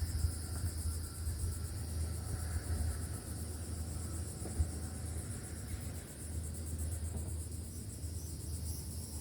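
Insects trilling steadily in a high, finely pulsing chorus over a fluctuating low rumble, with one sharp tap about halfway through.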